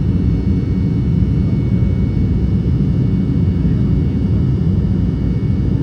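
Steady, loud, low rumble of an Embraer E195 airliner heard inside the passenger cabin, with faint steady high tones from its jet engines above it.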